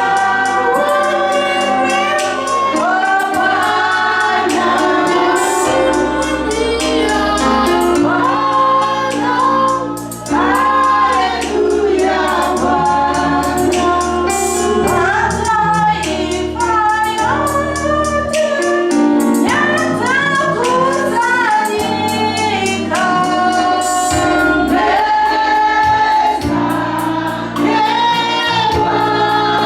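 Gospel choir singing a worship song with keyboard and bass accompaniment, female voices prominent.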